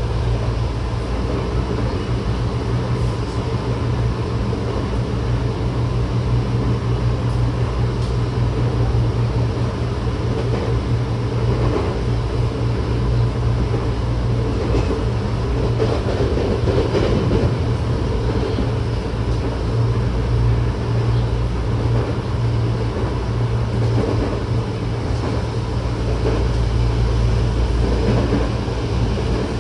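Tokyo Metro 08 series electric train (Mitsubishi IGBT VVVF traction), heard from inside the passenger car while running: a steady rumble of wheels on rail and running gear, with a faint steady high tone over it.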